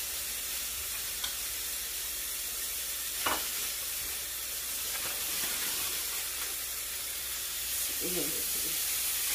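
Lamb mince (keema) patties sizzling steadily on a hot flat tawa, frying in the fat rendered from the mince with no oil added. A single sharp knock about three seconds in.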